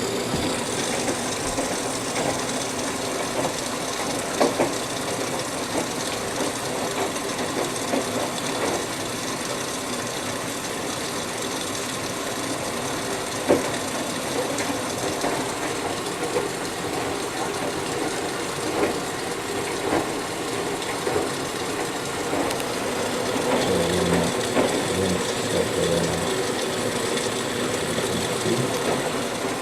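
Whirlpool Duet Sport front-load washer filling during its rinse: water runs in through the fill solenoid valve and dispenser cup with a steady hiss, with scattered light clicks and a few low knocks near the end.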